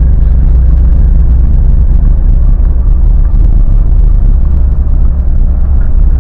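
Lada Niva Legend driving, a loud steady low rumble with no clear pitch.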